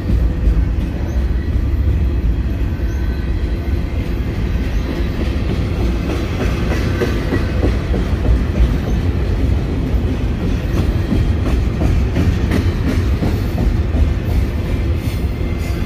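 Double-stack container well cars of a freight train rolling past close by: a steady, heavy low rumble of steel wheels on rail, with irregular clicks and clacks over the rail joints that grow more frequent near the end.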